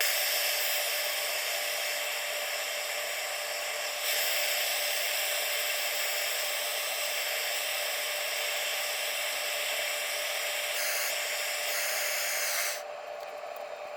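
Heat gun blowing steadily, a hiss with a steady fan hum, heating the crank installer bolt on the main bearing's inner race. It gets louder about four seconds in, dips briefly near the end and cuts off about a second before the end.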